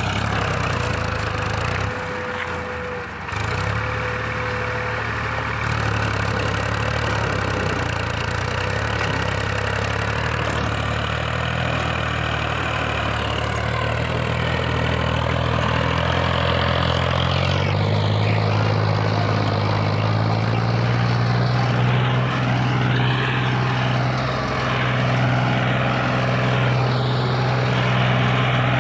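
Tractor diesel engine running under load, pulling a heavy trolley, its engine note rising partway through as it speeds up and then holding steady.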